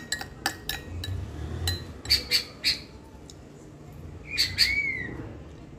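Small bird chirping in short groups of high calls, with a rising-then-falling whistled note near the end. A spoon clinks against a glass bowl a few times in the first second.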